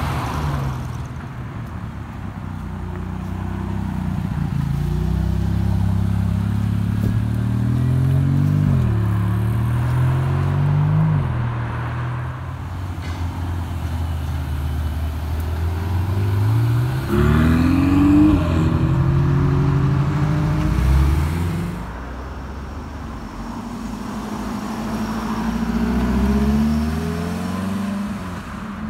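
Several sports cars pulling away one after another, their engines revving up and dropping in pitch at each gear change. The loudest, sharpest rise in revs comes a little past halfway.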